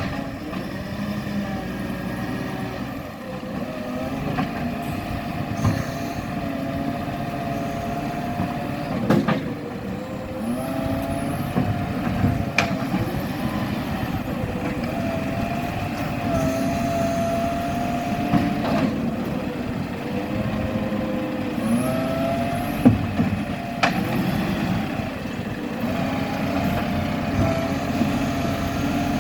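Garbage truck running, its engine pitch rising and falling repeatedly, with a few sharp knocks along the way.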